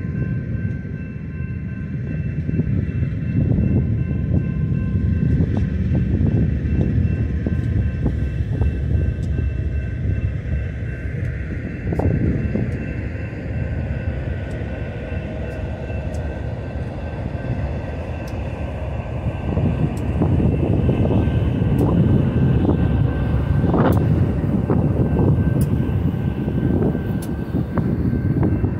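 BNSF double-stack container train rolling past mid-train: a continuous rumble of wheels on rail that swells and eases, with faint steady high whines and scattered light ticks.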